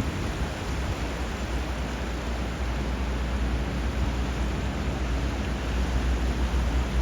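Steady rushing water of a river flowing into the sea with surf, an even hiss over a deep low rumble, swelling a little toward the end.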